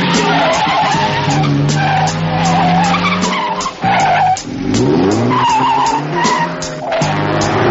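Car tyres squealing in repeated wavering bursts over engines running hard at speed. Midway there is a short dip, then an engine revs up with rising pitch before the tyres squeal again.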